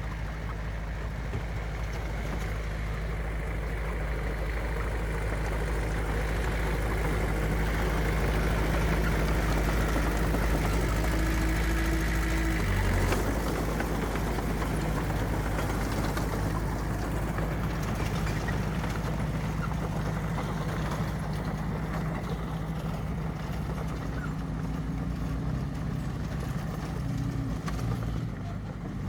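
Heavy earthmoving machine's diesel engine running steadily, growing louder toward the middle, then shifting pitch about halfway through and again near the end.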